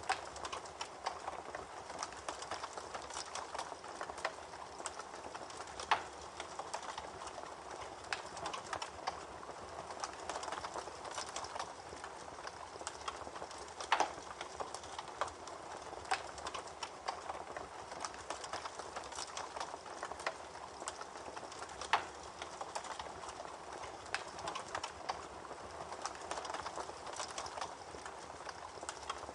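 Campfire crackling: wood burning with a steady hiss and many small pops, and a few louder snaps.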